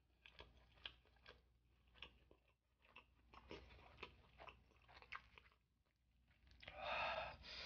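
Faint close-up chewing of boneless spicy sauced fried chicken: soft, scattered mouth clicks every half second or so. Near the end there is a short, louder rushing noise.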